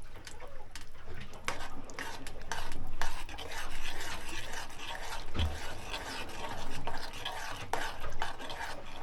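A spoon stirring a pot of ramen noodles, eggs and chili, scraping and clinking irregularly against the pot.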